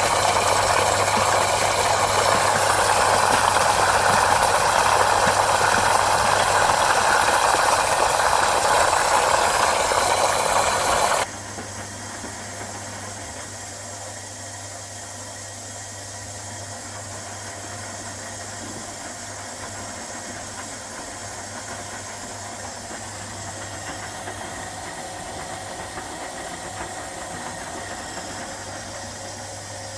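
1969 Zanker VA520 washing machine running: a loud, even rushing hiss cuts off suddenly about eleven seconds in, leaving a quieter steady mechanical hum.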